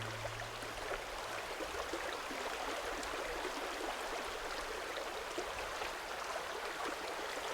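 A small stream running steadily with a soft babbling, while the last low note of the music dies away in the first second and a half.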